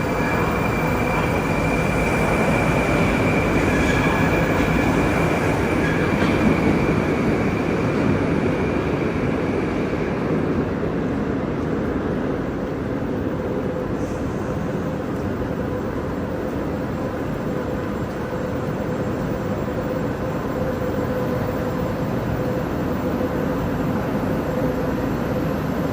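Moscow Metro train noise: a steady rumble with a high, even whine that holds for about the first ten seconds and then fades away.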